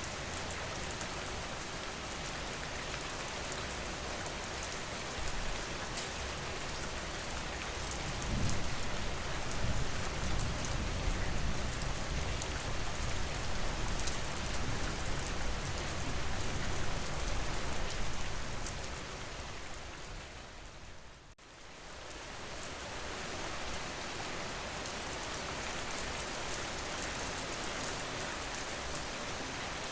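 Steady rain falling, a dense even patter. A deeper low rumble swells in for about ten seconds in the middle. A little past two-thirds through, the sound briefly fades nearly away, then builds back.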